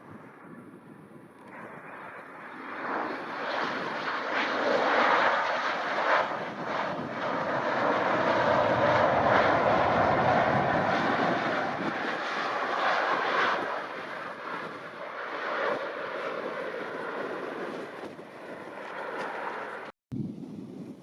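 Jet airliner passing overhead: engine noise builds about two seconds in, is loudest through the middle and fades away toward the end, with a brief dropout just before the end.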